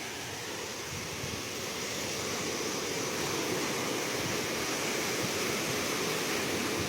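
Ocean surf: a steady rush of waves that slowly swells in loudness.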